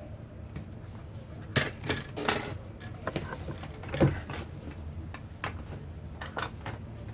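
Small hard objects, such as metal tools and parts, clinking and knocking as they are handled on a bench: several sharp separate clicks, the loudest about four seconds in.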